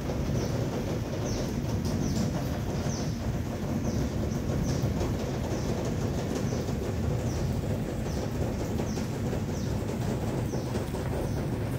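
Steady low rumbling noise with birds chirping over it: short, high, falling chirps roughly once a second.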